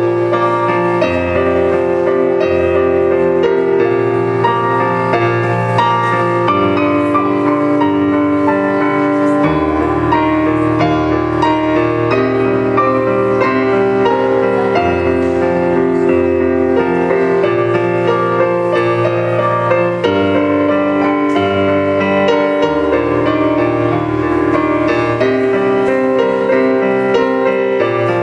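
Solo piano playing continuously: a dense run of overlapping notes over a bass line that shifts every second or two.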